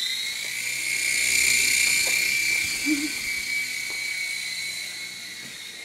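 Small electric model helicopter's motor and rotor whining steadily at a high pitch after spinning up, then fading away near the end.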